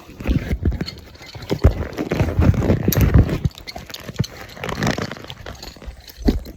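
Irregular clatter of knocks and scuffs, close and uneven, like gear being handled or feet on a hard surface.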